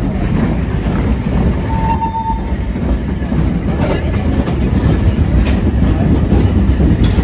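Narrow-gauge train running on its track, heard from inside an open-sided passenger carriage: a steady low rumble of wheels and carriage, with a short high tone about two seconds in and a few faint clicks.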